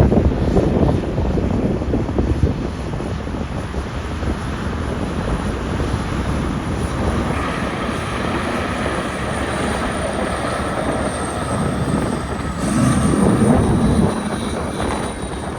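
Steady engine noise of a vehicle, with a thin high whine that slowly falls in pitch and a louder swell near the end.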